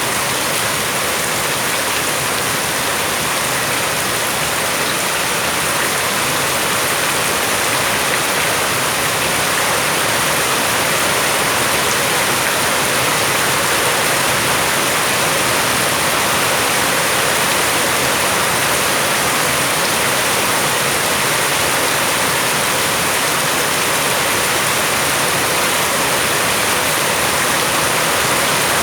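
Steady heavy rain falling and splashing on hard surfaces, a dense even hiss with no distinct drops standing out.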